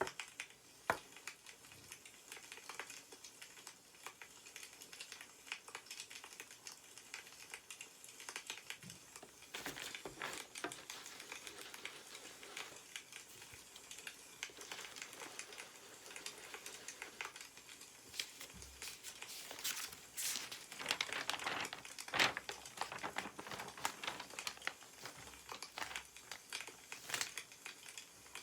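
Newspaper rustling and crinkling as its pages are handled, louder twice (about ten seconds in and again past twenty seconds), over a continual crackle and pop of burning firewood.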